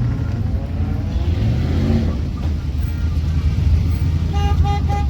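Truck engines rumbling, one revving up about a second in. Near the end a horn sounds a quick string of short toots, about five a second.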